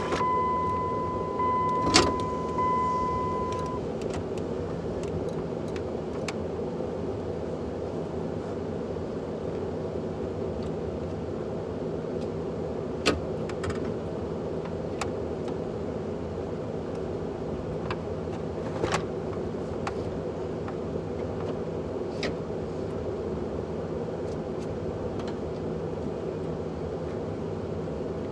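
Pickup truck engine idling steadily, with a steady high electronic tone over it that stops about four seconds in. A few sharp clicks sound: a loud one about two seconds in, and two more around thirteen and nineteen seconds in.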